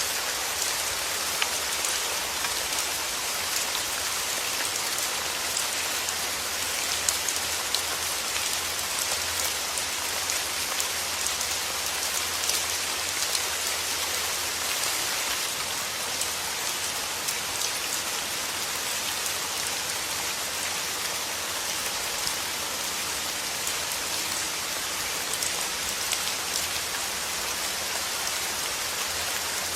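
Steady soft rain falling on a surface, an even hiss with scattered individual drop ticks.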